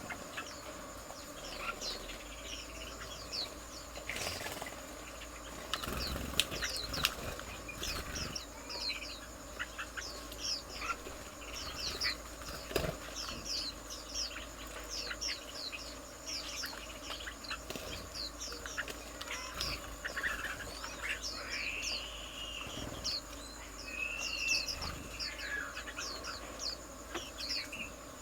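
Garden birds calling: a steady stream of short, high chirps, with a few louder, slurred whistled calls about two-thirds of the way through and a few brief knocks or flutters in the first half.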